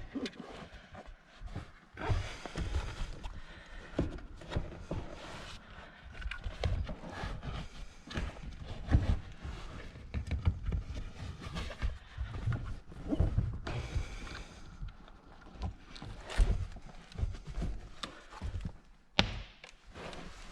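Irregular knocks, taps and thuds with bouts of scraping and rustling, as parts, trim and tools are handled during car interior reassembly.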